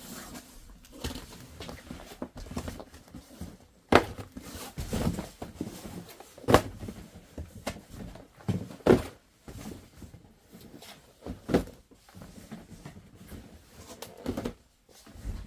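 Handling noises of a 3M dust mask being unboxed: irregular knocks and clicks, with softer rustling and handling sounds between them.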